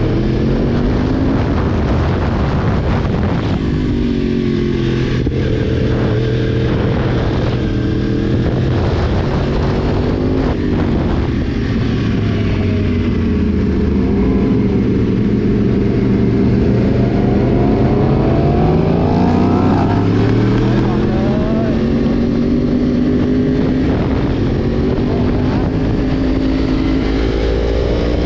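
Yamaha sportbike engine running under way, its pitch climbing and dropping several times as the throttle opens and closes.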